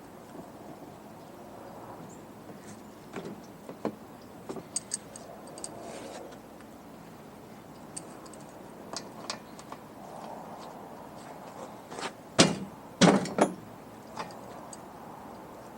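Scattered clicks and knocks of a wrench and metal fittings being handled while a part is loosened from an air compressor, with a few loud clanks in quick succession about three quarters of the way through.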